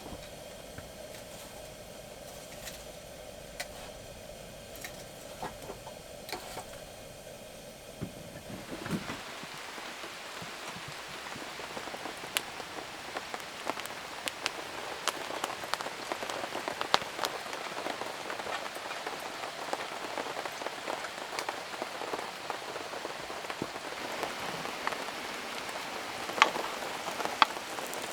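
Heavy rain falling, with many sharp individual drops ticking on a surface. For about the first nine seconds there is only a quieter, steady hum with scattered ticks before the rain comes in full.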